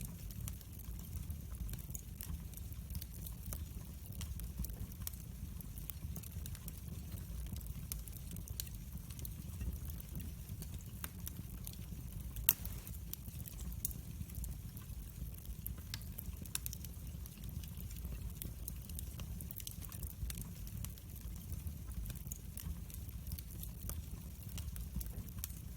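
Wood fire crackling in a fireplace: scattered small pops and crackles over a steady low rumble, with one sharper, louder pop about halfway through.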